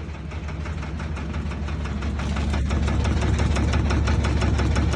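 Washing machine spinning up, a loud low hum with a fast, even rattle that grows louder over the first three seconds and then holds. The noise is likened to a helicopter and is blamed on the drain hose, loose and knocking because its original clip has broken.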